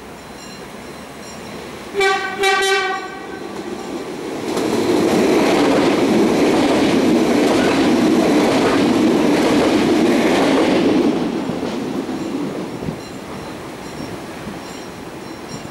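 Siemens Desiro electric multiple unit (class 460) sounding its horn in two short blasts, then passing close by with a loud rush of wheel and rail noise for about six seconds before it fades away.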